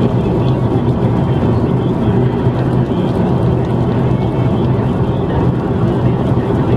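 Steady engine and tyre road noise of a car cruising at expressway speed, heard from inside the cabin.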